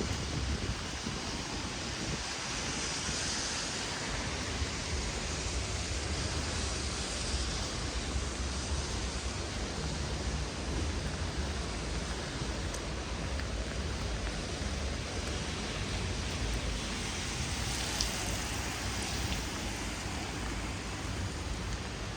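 Heavy rain falling steadily, with a low rumble of wind on the microphone underneath.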